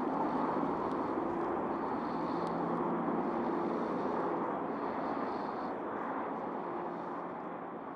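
Steady rush of interstate highway traffic, a dense wash of tyre and engine noise that dims slowly near the end.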